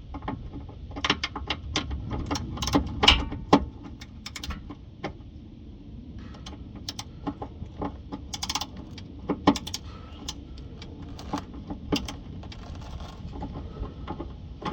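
Irregular metal clinks and clatter of a socket and hand tools being fitted to the muffler's mounting bolts, over a low steady background rumble.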